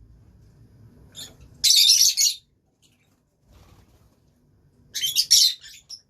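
Lovebirds calling: two loud, shrill bursts of rapid chattering screeches, each about a second long, the first about one and a half seconds in and the second near the end.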